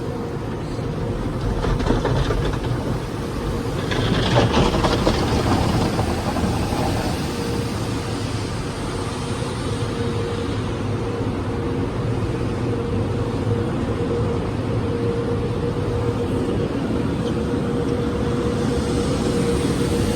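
Automatic car wash tunnel heard from inside a car riding the conveyor: a steady wash of spraying water and machinery noise under a constant hum, growing louder and brighter for a second or so about four seconds in.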